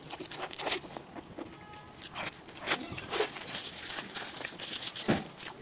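Close-miked chewing of a mouthful of soft bread, with wet mouth clicks, and the crinkle of disposable plastic gloves as the hands rub together. A dull thump sounds near the end.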